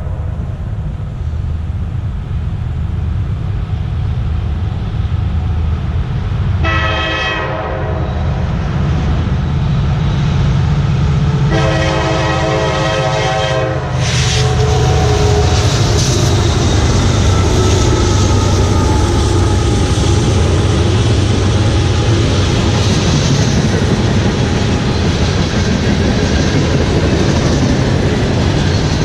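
CSX freight train's diesel locomotive approaching a grade crossing, sounding its horn: a short blast about seven seconds in, then a longer blast. These end the standard long-long-short-long crossing signal. The engine rumbles underneath, and from about halfway through the train passes close by with loud, steady wheel-on-rail noise and faint squeals.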